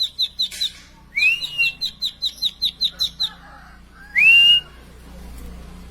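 Plain prinia singing: a rapid run of repeated high chirps, about five a second, broken by a rising whistled note and picked up again. About four seconds in comes a short, louder rasping call with a rising whistle, after which the singing stops.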